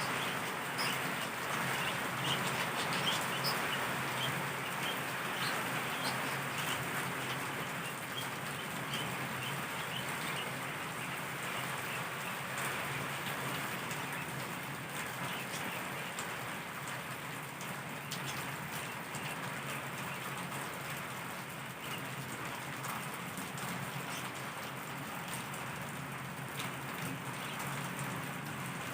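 Heavy, torrential rain falling: a steady hiss of the downpour with many small drop and splash ticks scattered through it.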